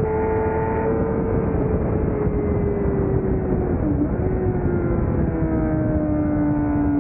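600cc racing motorcycle engine running hard at high revs, its pitch sagging slowly with a brief dip about four seconds in, over heavy wind and road noise.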